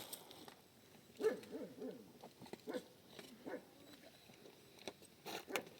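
A series of short animal calls, several falling in pitch, followed near the end by a few sharp knocks.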